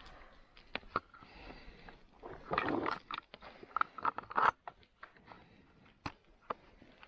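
Irregular scrapes and sharp clicks of hand work on a saw. The longest scrape comes about two and a half seconds in, and a quick run of louder clicks follows about a second later.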